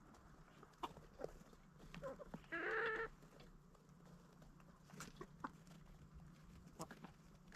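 Chickens clucking quietly, with short scattered calls and one louder, drawn-out call about two and a half seconds in.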